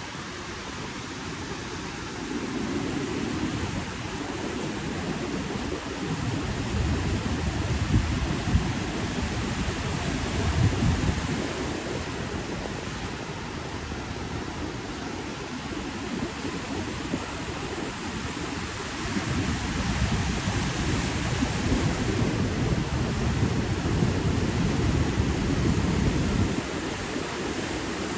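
Ocean surf washing in and out in slow surges, with a deep rumble that is likely wind buffeting the microphone.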